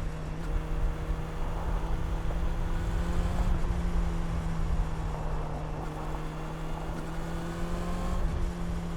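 Honda CB400 Super Four's inline-four engine running at a steady cruising pace, its note holding level and rising slightly in pitch in the second half, over a low rumble.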